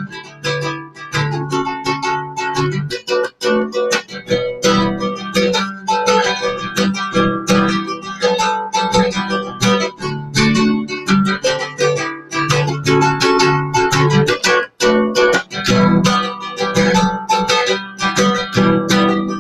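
Acoustic guitar strummed rhythmically through a chord progression, with no singing.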